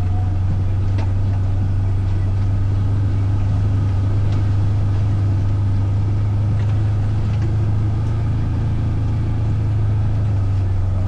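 A vehicle engine running at a steady speed, a constant low drone with no change in pitch, with a few faint light clicks.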